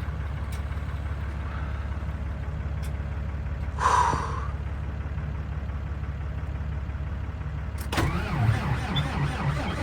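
A steady low hum, with a short buzz about four seconds in. About eight seconds in, the cold-soaked diesel engine of a Volvo semi truck starts cranking at about 5 °F. It turns over unevenly and tries to fire but does not yet catch.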